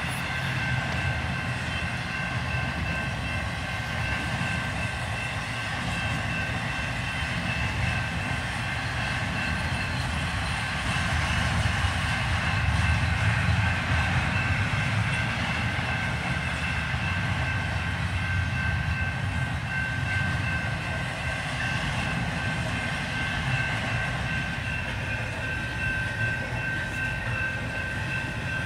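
CN freight train passing through a road crossing at speed: a continuous rumble and clatter of cars on the rails, heard from inside a car, with a steady high ringing tone over it.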